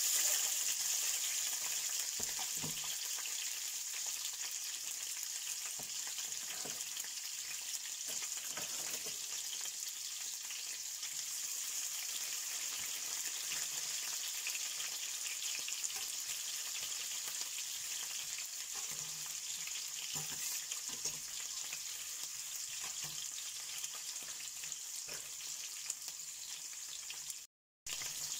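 Sliced bell peppers sizzling in hot oil in a frying pan, a steady high hiss with occasional light taps and scrapes of a metal slotted spoon stirring them. The sound cuts out for a moment near the end.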